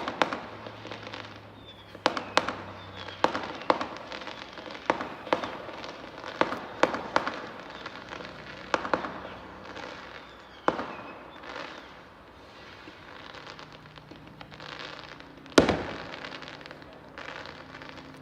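Fireworks going off at a distance: an irregular run of sharp bangs, some followed by crackling, with the single loudest bang about three quarters of the way through.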